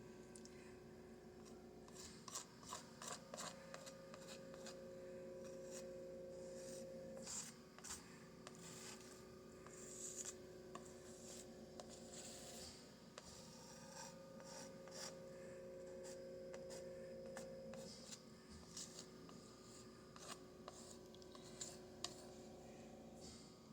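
Palette knife scraping and rubbing acrylic paint onto a canvas: a long run of faint, irregular scratchy strokes. A steady low hum comes in twice under the strokes.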